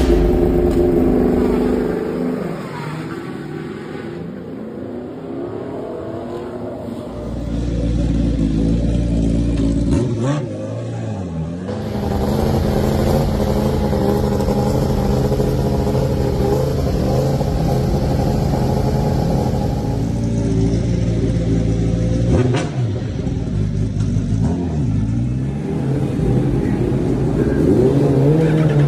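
Superbike racing engine running at high revs. Twice the engine note drops off and climbs back up, about ten seconds in and again a little past twenty seconds, as the bike brakes and accelerates out of corners; between those dips it holds high and steady.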